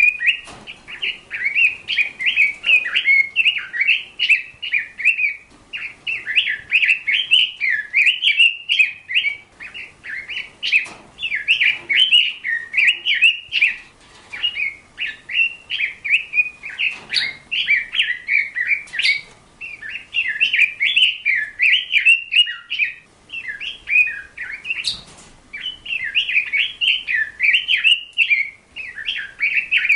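A small bird singing a fast, unbroken chattering warble in long runs of several seconds, each broken by a short pause.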